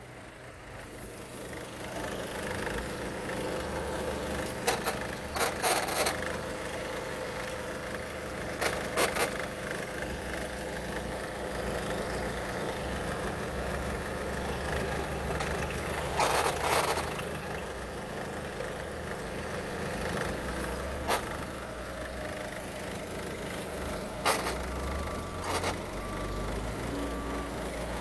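Peugeot 308 1.6 HDi (9HX) four-cylinder turbo-diesel running on an engine test, a steady low drone. A few loud knocks and clatters break in now and then, and a row of short high beeps sounds near the end.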